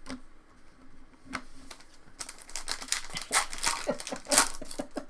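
Trading-card pack wrapper crinkling as it is handled: a couple of single clicks, then a dense run of crackles from about two seconds in.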